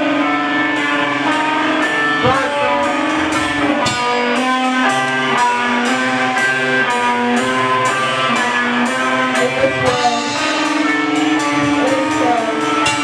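Live band playing: guitar chords ringing over drums, with cymbal strokes keeping an even beat.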